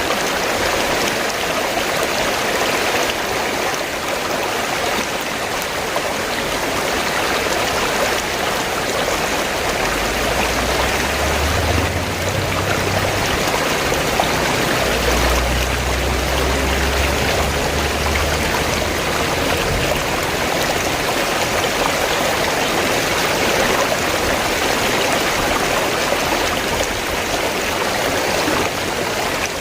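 River water flowing and rushing steadily. A deep low rumble joins in for several seconds midway.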